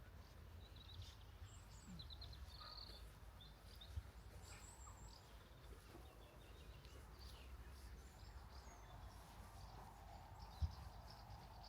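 Faint songbirds chirping and trilling in short, scattered phrases over a quiet, steady low rumble, with a soft thump about four seconds in and another near the end.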